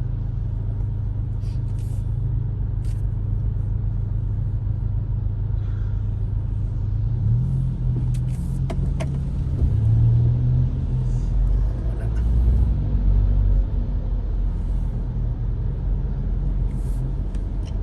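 Low, steady rumble of a car being driven, heard from inside, with engine and road noise. It swells louder for a few seconds past the middle.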